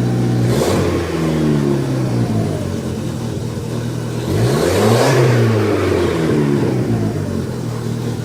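Chrysler Turbo LeBaron's turbocharged four-cylinder revved twice through a Cherry Bomb muffler and turned-down 2.5-inch pipe, each rev climbing and dying back over a couple of seconds. The exhaust note is subdued and no turbo whistle is heard.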